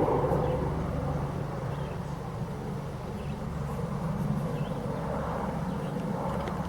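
A steady low engine drone, with a few faint high chirps now and then.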